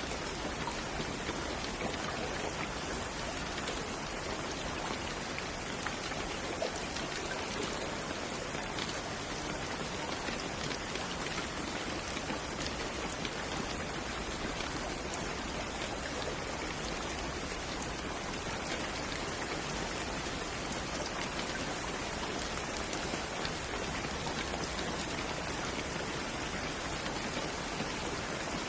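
Steady rainfall, an even hiss of rain with many small drop patters on a surface.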